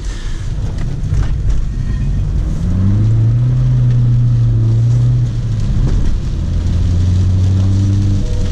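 BMW E46 320d's M47 four-cylinder turbo diesel heard from inside the cabin, over steady road noise. The engine note rises about three seconds in, holds for a couple of seconds, dips just after five seconds, then settles to a steady lower drone.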